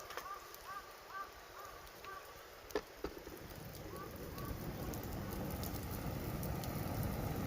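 Wood fire crackling with scattered sharp pops and one louder crack about three seconds in, while a wild bird repeats a short chirping call about twice a second during the first half. From about halfway a low rushing noise of wind on the microphone builds steadily.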